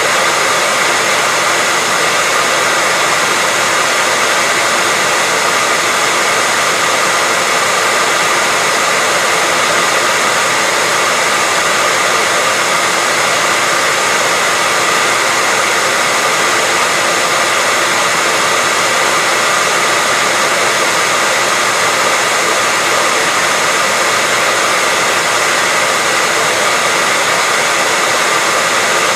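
Hair dryer running steadily as continuous white noise: an even, airy rush with a faint steady whine in it and no change in level.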